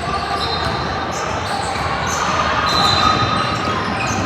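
Ball bouncing on a gym floor during a youth game, with short high squeaks and a steady background of spectators, echoing in a large hall.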